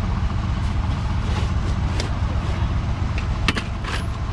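1982 Chevy Scottsdale pickup's engine idling with a steady low rumble, with a few sharp metallic clicks and knocks over it, a close pair about three and a half seconds in.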